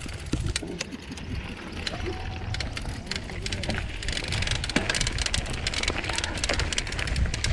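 Mountain bike rolling over a rough dirt trail: tyres crunching and the bike rattling with many sharp clicks over a steady low rumble, getting louder from about four seconds in.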